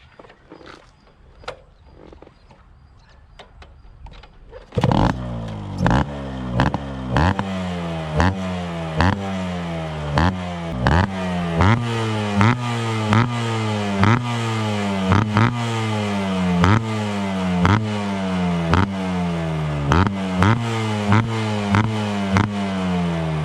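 Yamaha RXZ's single-cylinder two-stroke engine with an open cat exhaust, coming in suddenly about five seconds in. It is revved in short, repeated throttle blips, about three every two seconds, each rising and falling back.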